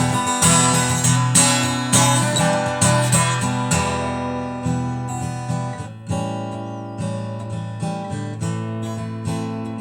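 Music: an acoustic guitar strumming chords in an instrumental passage, with no singing. The strums come at a regular pace for the first few seconds, then longer held chords follow.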